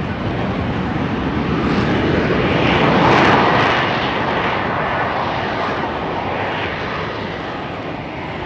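An aircraft passing, its engine noise rising to a peak about three seconds in and then slowly fading.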